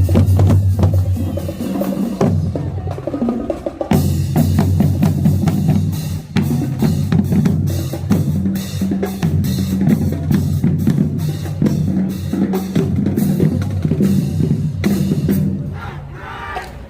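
High school marching band playing: the drumline's snares and bass drums hitting hard over held low brass notes, dropping away near the end.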